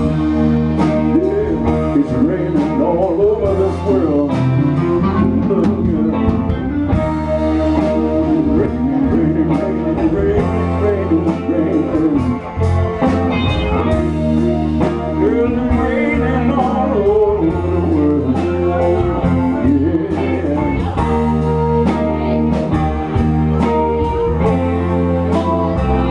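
Slow blues band playing an instrumental passage: lead guitar with bending, sliding notes over rhythm guitar, bass and drums.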